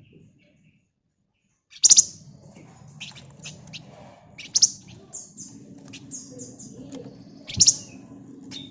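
A flamboyan (wergan Jawa) songbird calling: loud, sharp, high chirps about every two to three seconds, with quick runs of high twittering notes between them. The calls begin after a pause of about a second and a half near the start.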